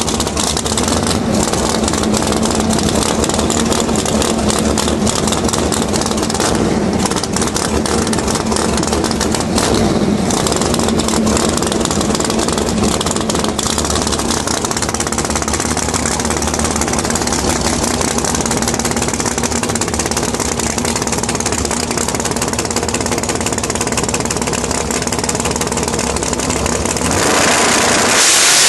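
Race vehicle engine running steadily, with voices mixed in. A louder rushing noise comes in near the end.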